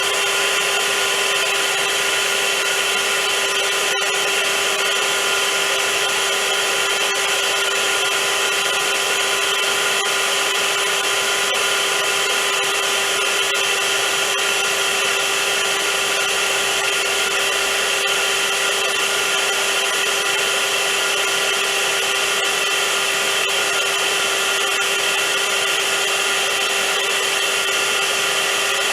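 Vacuum cleaner motor running steadily: a loud, even whir with a constant hum, unchanging throughout.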